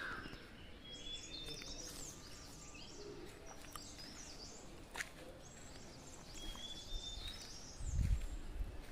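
Small birds chirping and twittering in short, high calls, against a faint outdoor background. A single sharp click about five seconds in and a low rumble near the end.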